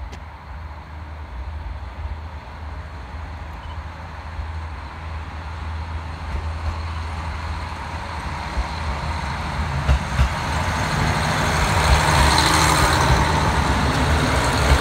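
Diesel railcar passing close by: a steady low engine hum and the noise of the wheels on the rails grow steadily louder, with a few sharp knocks partway through.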